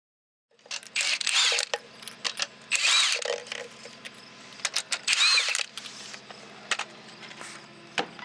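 Cordless impact wrench run in three short bursts, its pitch rising and falling each time, as strut-mount bolts are driven, with metal clicks and clanks of parts and tools in between over a steady low hum.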